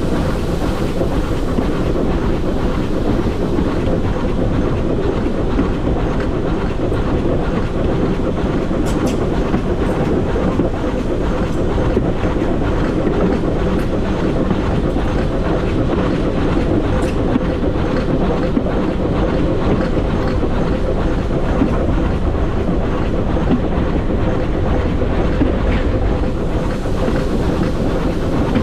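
Train hauled by the GWR small Prairie 2-6-2T steam tank engine No. 5542 running along the line: steady running noise of its wheels on the track, with a few faint clicks.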